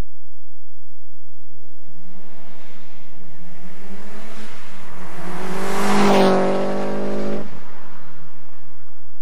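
Exhaust note of a 2006 Subaru Impreza STI's turbocharged flat-four through a Maddad Whisper single-tip catback, the car accelerating hard and building to its loudest about six seconds in, then dropping away sharply about seven and a half seconds in, as in a drive-by.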